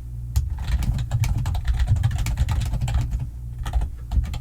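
Fast typing on a computer keyboard: a quick, irregular run of key clicks with a brief pause a little past the middle, over a steady low hum.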